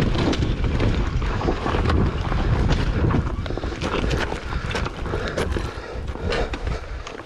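Dirt bike riding on a rough single-track trail: a steady motor rumble heavily buffeted by wind on the microphone, with scattered knocks and rattles from the bike over the terrain.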